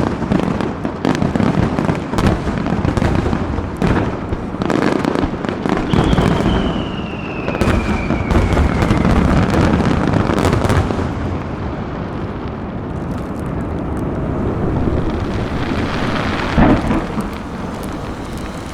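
Aerial fireworks going off: many shell bursts in quick, overlapping succession, with a whistle falling in pitch about six seconds in. The bursts thin out later, with one loud bang near the end.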